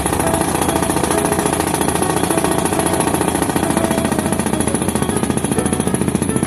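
Solar pile driver working, a steady rattle of rapid repeated impacts.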